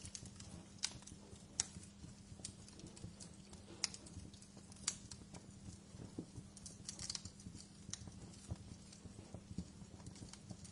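Wood fire in a fireplace crackling, with sharp pops at irregular intervals over a low steady hum.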